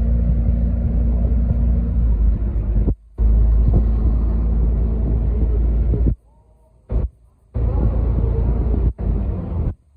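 Steady low rumble of a Venice vaporetto (water bus) engine, cut off abruptly several times, with a short quiet gap in the middle.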